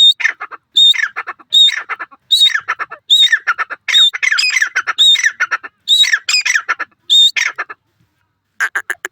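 Teetar partridge calling in a fast, harsh series. A new phrase comes about every 0.8 seconds: each opens with a high note and runs down through a quick string of lower notes. There is a pause of about a second near the end before the calls start again.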